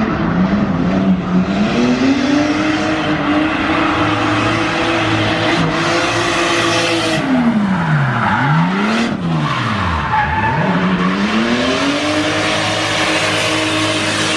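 Turbocharged stroker 2JZ inline-six in a 950 hp Toyota Supra drift car, held at high revs with tyres squealing in a slide. The revs drop sharply and climb back twice, about two-thirds of the way through.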